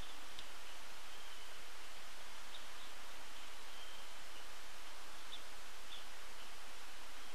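Faint, scattered short bird calls and chips over a steady background hiss.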